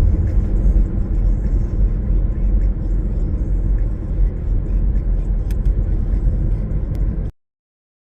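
Low, steady rumble of a car driving, with a few faint clicks; it cuts off abruptly about seven seconds in.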